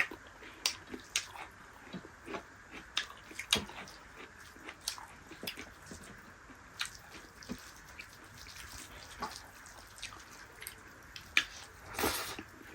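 Close-miked eating: irregular wet chewing and mouth smacks from people eating dal bhat with dried yak meat, with a short, louder noisy rustle near the end.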